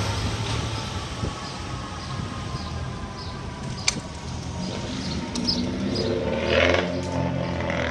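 Fire apparatus engine running with a steady low rumble, a sharp click just under four seconds in, and the engine swelling louder near the end as the rig pulls away.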